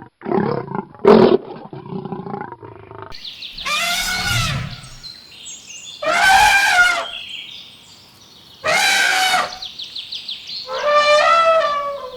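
A series of loud animal calls: a few short cries, then four drawn-out pitched calls about a second each, the last one wavering.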